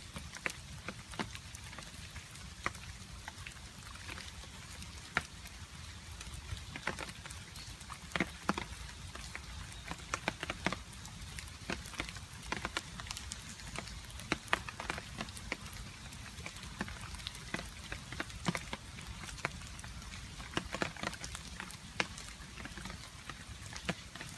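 Rain with water dripping: many irregular, sharp drops hitting a surface over a steady patter of rain and a low rumble.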